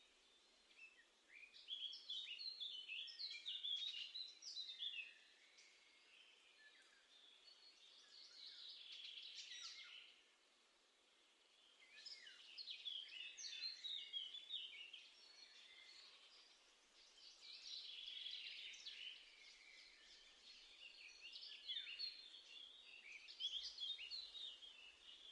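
Small songbirds singing and twittering, rapid phrases of high, quickly changing notes coming in several bouts of a few seconds each, with short quieter gaps between.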